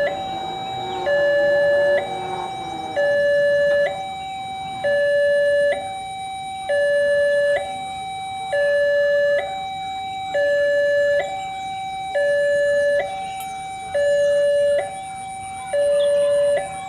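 Railway level-crossing warning alarm: two electronic tones alternating high-low, each held just under a second, repeating steadily. It comes on at the start and warns that a train is approaching and the barrier is closing.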